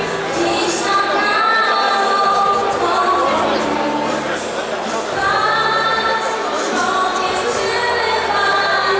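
A choir singing a Polish Christmas carol (kolęda), with long held notes.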